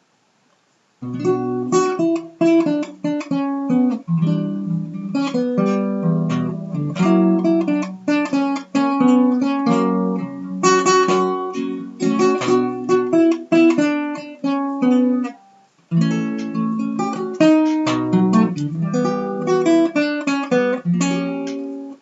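Solo acoustic guitar playing the instrumental opening of a song, plucked and strummed chords, starting about a second in with a brief pause about two-thirds of the way through.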